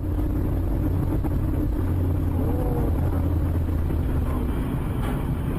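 A car driving steadily: a constant low engine and road rumble.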